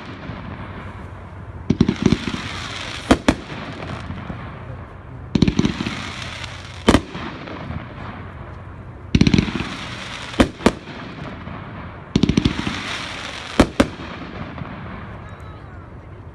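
500-gram consumer fireworks cake, Triple Threat, firing single shots about three to four seconds apart. Each shot is a low launch thump with a rushing hiss, followed about a second and a half later by one or two sharp bangs as the shell breaks in the air.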